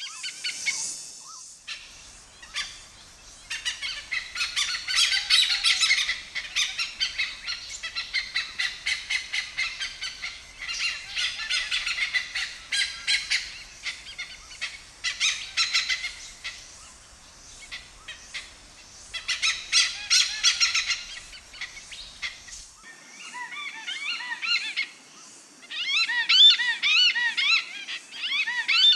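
Wild birds calling: a dense stretch of rapid, high chirping notes, then, after an abrupt change about 23 seconds in, a different chorus of repeated arching whistled notes.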